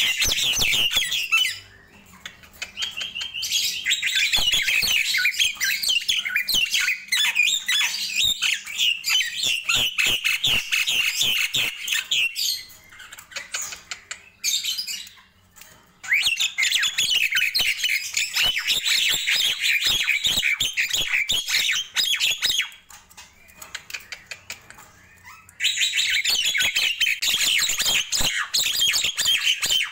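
Nias hill myna giving long bouts of rapid, chattering squawks and whistles, breaking off briefly three times.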